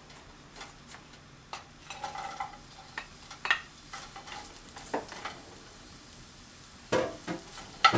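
Onion frying in sesame oil in a frying pan on low heat, a quiet sizzle, while a utensil stirs it and knocks against the pan several times.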